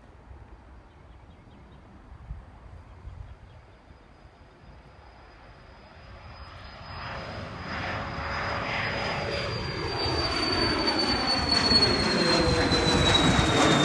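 Private jet taking off, its engines growing from faint to loud from about six seconds in, with a high turbine whine that slowly drops in pitch.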